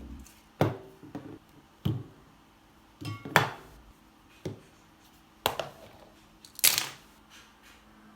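Objects being handled in a small room: a handful of separate short knocks and clicks spread unevenly, the loudest about a third of the way in and again near the end.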